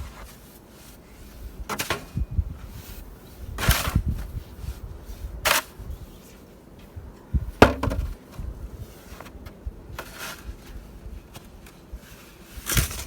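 Snow shovel working knee-deep snow: about six short crunching, scraping strokes at irregular intervals of roughly two seconds.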